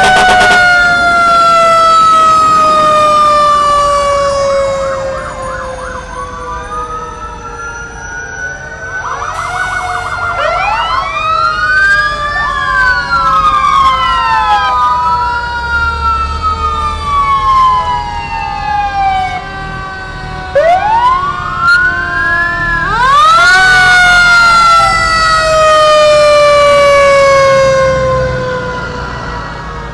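Fire engine sirens, several overlapping at once, each winding up quickly and then gliding slowly down in pitch. The sound is loud near the start, eases off for a few seconds, then builds again as new sirens wind up near the end.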